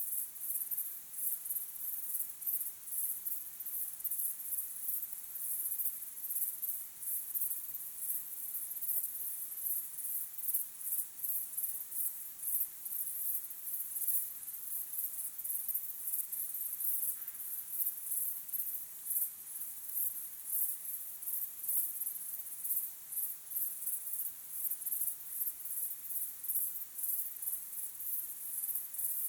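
A chorus of crickets chirping steadily, fast high-pitched pulses repeating several times a second.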